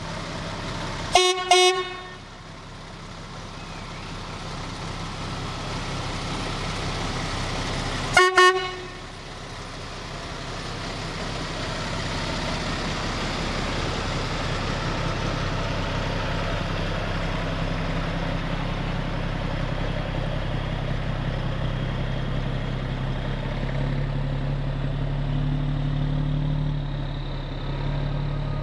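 Fire truck horn sounding two quick blasts, then one more short blast several seconds later, over the steady rumble of fire apparatus diesel engines rolling past, the engine sound growing louder toward the end.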